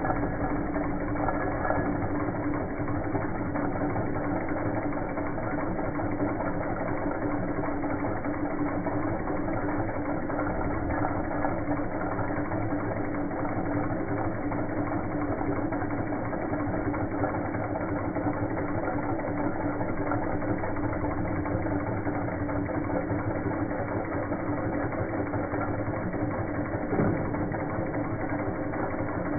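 Stirling engines running steadily, making a continuous mechanical whir with a steady hum underneath.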